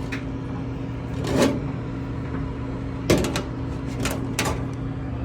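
Handling noises of a dryer's lint screen being pulled out and pushed back: a few scraping rustles and one sharp knock about three seconds in, over a steady low appliance hum.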